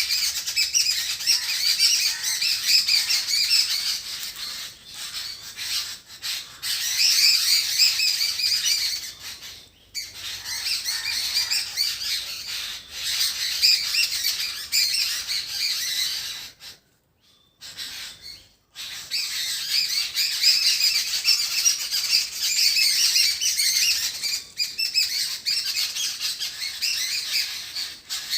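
Birds chirping, many short calls overlapping continuously, broken by about two seconds of near silence a little past the middle.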